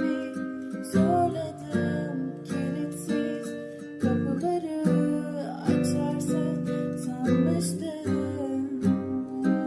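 Song music led by a strummed acoustic guitar playing chords in a steady rhythm.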